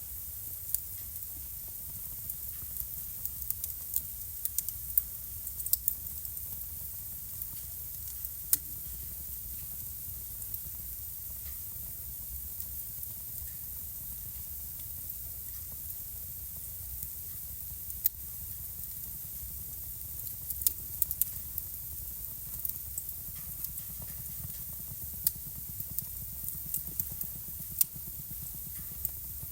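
Wood fire burning in a fireplace: irregular sharp crackles and pops, some in quick clusters, over a steady low rumble and hiss.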